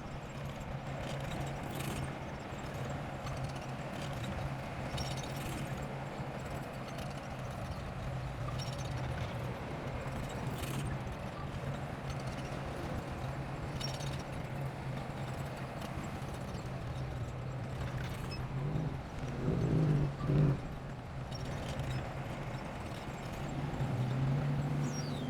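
Bulldozer's diesel engine running steadily, with scattered metallic knocks from the working machine. The engine swells briefly twice, about twenty seconds in.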